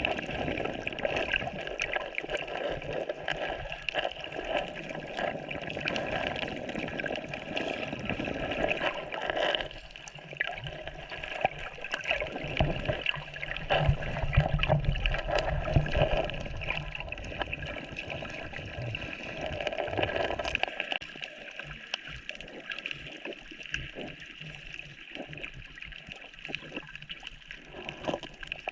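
Sea water gurgling and sloshing around a camera in shallow water, with many small scattered clicks. It swells louder about halfway through, then settles quieter for the last third.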